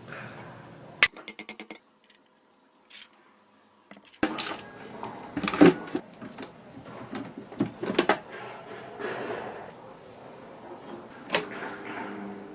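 Plastic and metal fan parts being handled and fitted during a repair: sharp clicks and knocks with clattering. About a second in there is a quick run of about six ticks.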